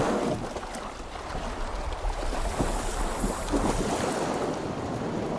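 Wind on the microphone and water washing around a small boat on the open sea, with a steady low rumble and a few irregular splashes.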